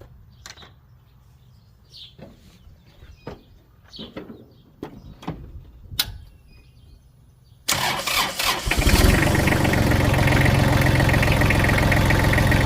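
Kubota L3130 tractor's diesel engine cranked by the starter about eight seconds in, catching within about a second and settling into a steady idle.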